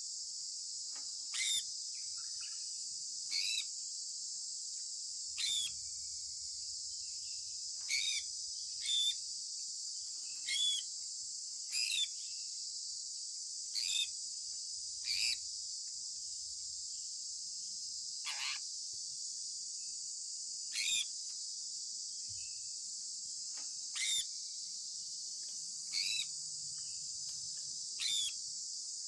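Sun conure giving short, sharp chirps about every two seconds, each one dropping in pitch, over a steady high-pitched hiss.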